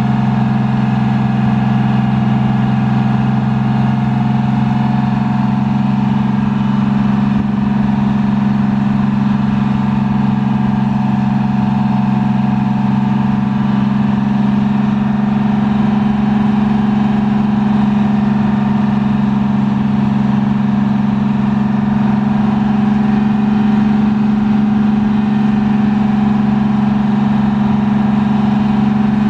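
Detroit Diesel 6V92TA two-stroke V6 diesel of a 1982 MCI MC-9 coach running at a steady speed, its pitch holding constant with no revving up or down.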